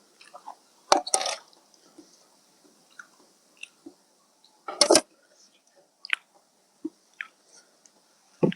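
A person eating rice noodles in fish curry sauce close to the microphone: wet chewing and mouth sounds with scattered small clicks, and two louder bursts, about a second in and near five seconds.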